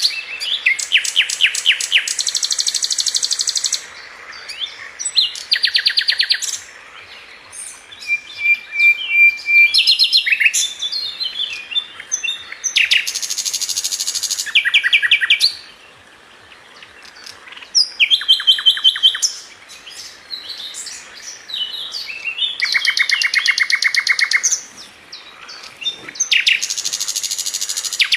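A Sikatan London flycatcher singing: loud, high-pitched phrases of fast repeated notes and chirps, each a couple of seconds long, broken by short pauses.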